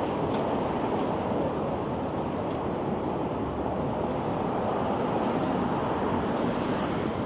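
Strong, gusty wind rushing along a city street, a steady rush of noise with some buffeting on the microphone.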